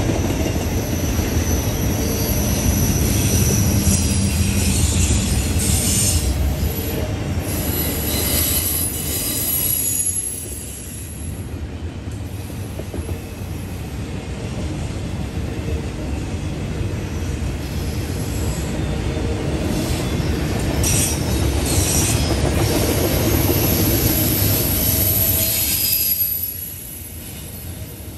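Norfolk Southern double-stack intermodal freight cars rolling past: a steady rumble of wheels on rail with high wheel squeal that comes and goes. The train briefly gets quieter about ten seconds in and again near the end.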